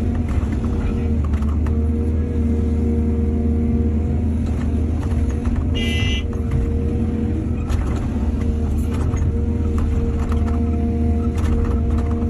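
Excavator's diesel engine running steadily under load, with scattered knocks from the work and a brief high-pitched squeal about six seconds in.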